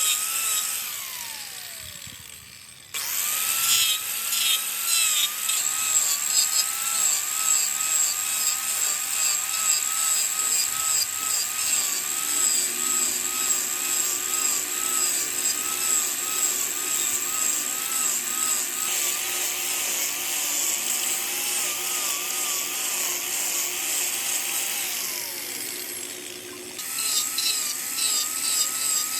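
Wood lathe running while a tool works the spinning wood, a steady gritty cutting sound with a wavering whine. It fades out and cuts off abruptly about 3 s in, then runs steadily again until it dips and restarts near the end.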